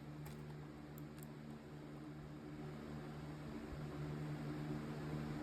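Quiet, steady low hum with faint hiss: background room tone of the recording.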